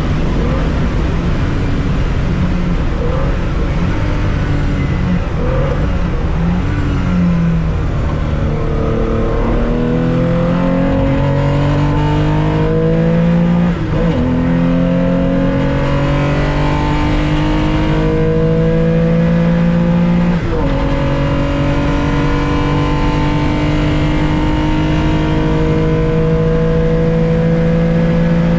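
Air-cooled 2.0-litre flat-six of a 1965 Porsche 911 racing, heard from inside the car. After several seconds at uneven revs it pulls hard with rising pitch, with upshifts about halfway through and again about two-thirds of the way in, then keeps climbing in the next gear.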